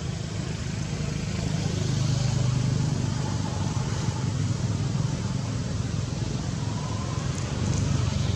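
Steady low rumble with a hiss over it, and two faint short whistle-like calls, one about three and a half seconds in and one about seven seconds in.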